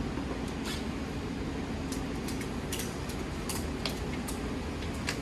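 Steady fan-like hum of shop ventilation, with scattered light clicks and taps, about half a dozen, from hands and tools working on the stripped-down motorcycle.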